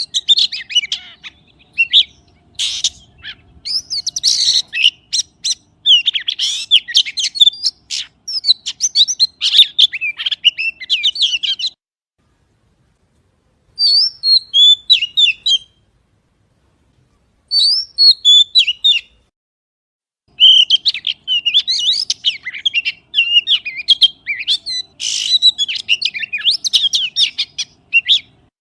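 A magpie singing: dense runs of rapid, high, chattering chirps and trills with some sharp clicking notes. It falls silent twice briefly in the middle, with short phrases between, then resumes its full chatter.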